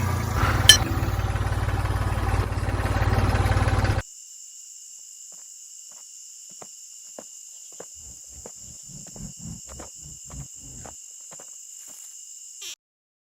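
A small motor running with a loud, steady buzz that cuts off abruptly about four seconds in. A much quieter stretch follows, with a steady high whine and a few soft low knocks, and it stops suddenly near the end.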